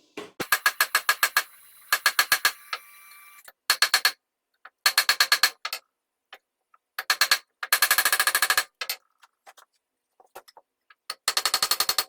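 Rapid runs of light hammer taps on metal, about nine strikes a second, each strike ringing with the same bright metallic tone; the runs last about a second and stop and start several times, with a nearly continuous run near the middle.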